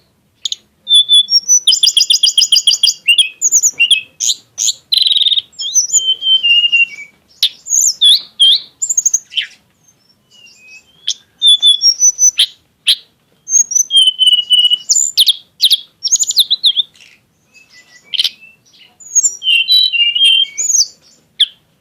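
Tledekan gunung songbird singing a varied, loud song of sharp chirps, gliding whistles and fast rattling trills, with a couple of short pauses.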